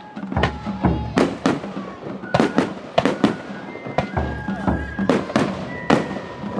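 Aerial firework shells bursting in quick succession, more than a dozen sharp bangs, with music playing underneath.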